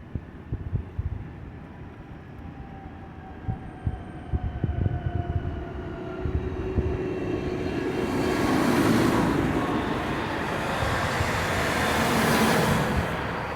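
Tractors driving past in a parade, engine noise swelling as they come close, with two loudest passes near the end and the engine pitch falling as each goes by.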